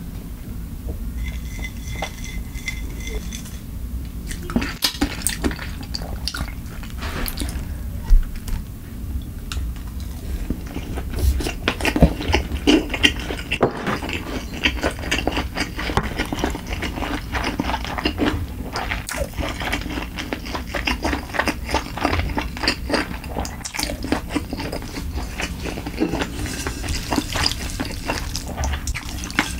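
Close-miked eating sounds: wet chewing and smacking of sushi in the mouth, dense with small clicks and crackles, and chopsticks now and then clicking against the dishes.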